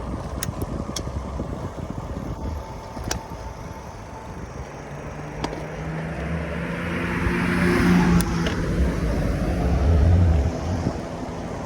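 A car passes, growing louder to a peak about eight seconds in and then fading, over low wind buffeting on the microphone.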